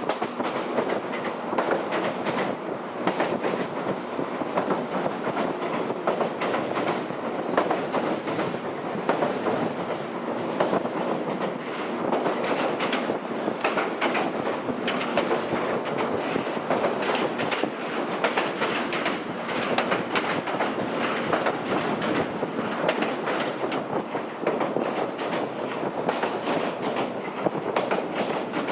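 Former JNR-type electric train running along jointed track: a steady rumble with wheel clicks over the rail joints throughout.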